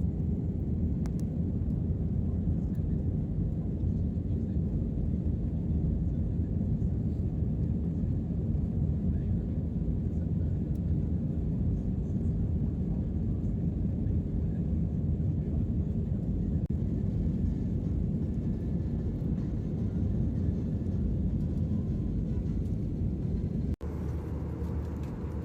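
Steady low rumble of an airliner cabin in flight: engine and airflow noise heard from inside the plane. An abrupt cut near the end switches to a different, similar steady background.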